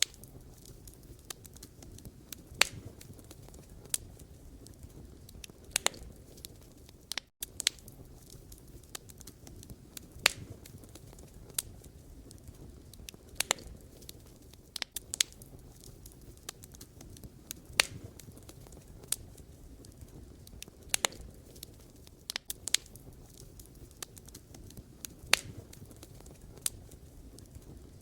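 Wood campfire burning: a low steady rumble of flames with irregular sharp crackles and pops from the burning logs, one or two every second or so. There is a split-second dropout about seven seconds in.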